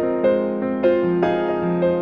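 Soft background piano music, notes struck about every half second.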